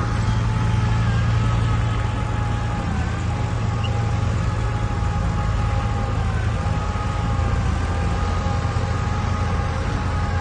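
Heavy diesel engine of earthmoving machinery running steadily, with a low hum and a higher whine that dips briefly twice.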